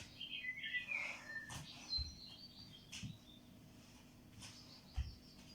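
Small bird chirping in short twittering calls, mostly in the first two seconds, with a few soft thuds of feet stepping on the floor during the exercise.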